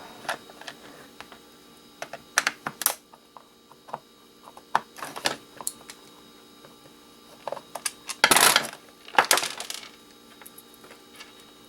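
Small hard clicks and clinks of a plastic heat gun being taken apart by hand, with small screws clinking. The clicks are scattered and irregular, and the loudest bursts of clatter come about eight and nine seconds in.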